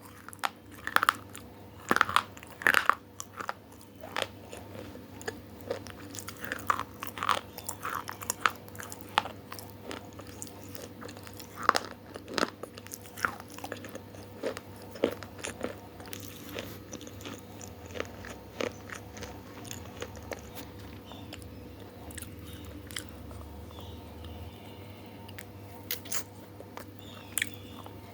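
A person biting and chewing crunchy food close to the microphone: frequent loud crunches in the first half, thinning to scattered quieter chews later on, over a faint steady hum.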